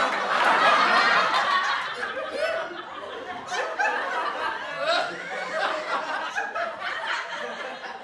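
A group of people laughing together, loudest over the first two seconds, then easing off into scattered chuckles and snickers.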